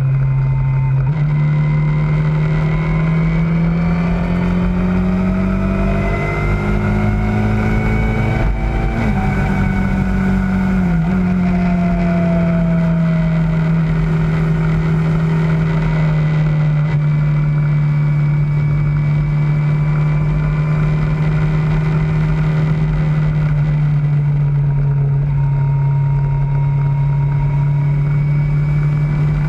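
Kawasaki ZZR600's inline-four engine running under way. Its pitch climbs over the first several seconds, drops sharply about eleven seconds in, then holds steady.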